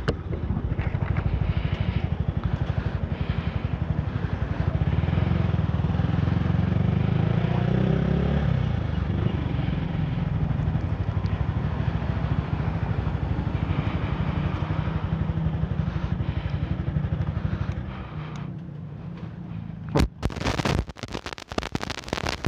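Yamaha R15 V3's single-cylinder engine running steadily under way. Near the end the engine sound drops off as the bike slows and stops, followed by a few sharp knocks and a clatter.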